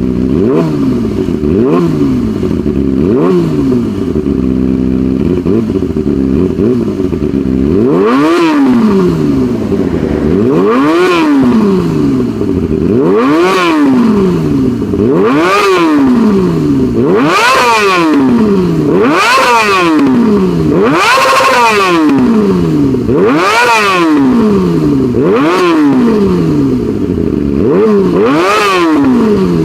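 Motorcycle engine revved repeatedly through its exhaust. There are short quick blips for the first several seconds, then fuller revs about every two seconds, each rising and falling in pitch, one of them held a little longer near the end.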